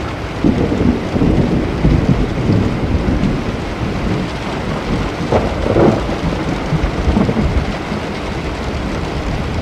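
Thunderstorm: steady rain with rolling thunder rumbling over it, swelling about half a second in and again around six seconds in.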